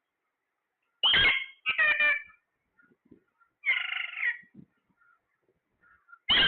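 A parrot giving four short calls, each lasting well under a second, spaced over several seconds with pauses between.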